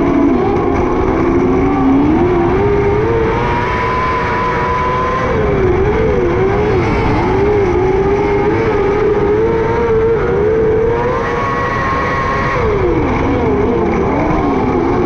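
A 600cc micro sprint car's engine running at racing speed. Its revs fall and climb again about three times, near the start, about halfway through and near the end, and hold steady and high in between.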